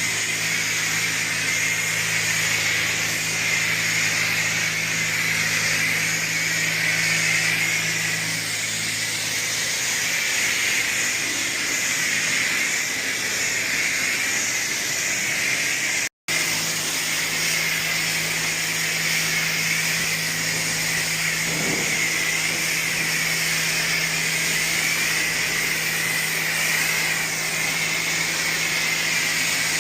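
High-pressure car wash wand spraying rinse water onto the wash bay floor: a steady hiss of spray with a steady low hum underneath.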